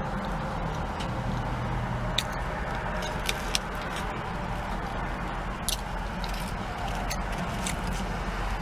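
Steady low hum of a car's engine idling, heard inside the cabin, with a few scattered sharp clicks and crackles from chewing and handling a crispy biscuit sandwich.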